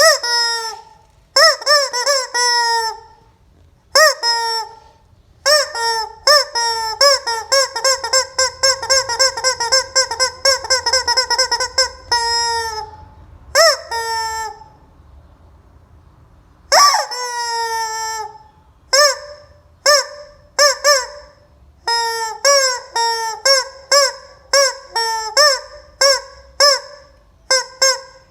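Rubber squeeze-toy chicken squawking over and over in loud, honking squeals that bend in pitch. Some squawks are drawn out for a few seconds. Near the end come quick, short squeezes, about two a second.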